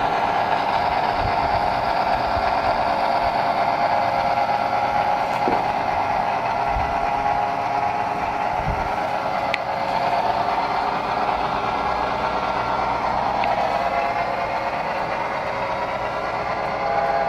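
Model train running on the layout: a steady motor whine and engine-like hum, with a few faint clicks.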